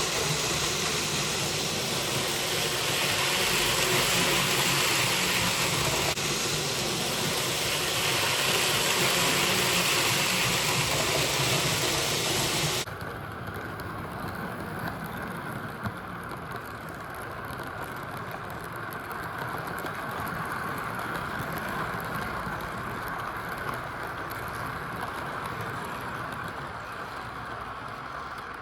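Model Norfolk Southern diesel locomotive No. 1446 running on a layout with a steady engine sound and a hiss. About 13 seconds in, the hiss drops off suddenly and the locomotive runs on more quietly.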